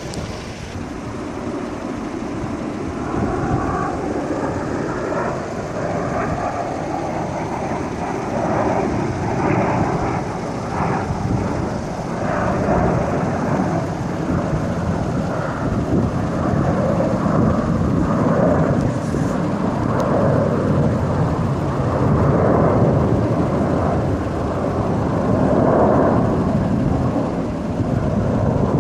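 Display aircraft flying overhead: a continuous, loud engine rumble that builds over the first few seconds and stays strong.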